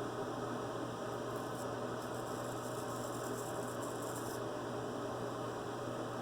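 Steady electrical hum under a constant hiss, with a faint, high scratchy rasping from about one second in to just past four seconds.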